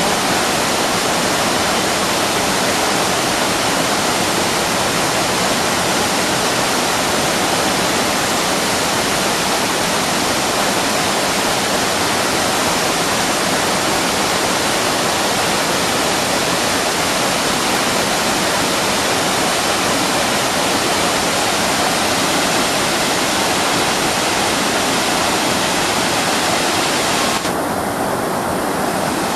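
Waterfall: a loud, steady rush of falling water, its hiss thinning briefly near the end.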